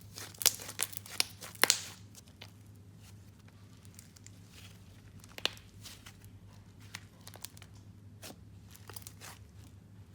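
Slime being squished and stretched by hand, giving a quick run of sharp crackles and pops in the first two seconds, then scattered clicks.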